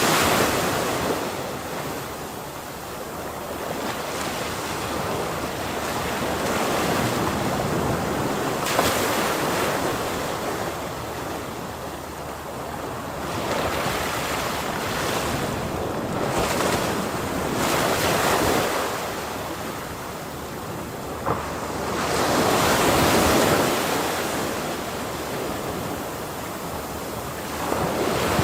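Ocean surf: waves crashing and washing in, the rush swelling and ebbing every several seconds, with the biggest wave breaking a little past twenty seconds in.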